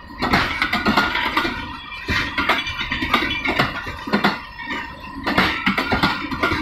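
Shalimar Express passenger coaches rolling past, their wheels clattering and knocking irregularly over rail joints and points, with a steady high tone underneath.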